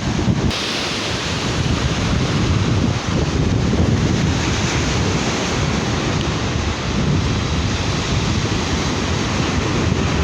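Sea surf washing onto a beach, with strong wind buffeting the microphone in a steady low rumble.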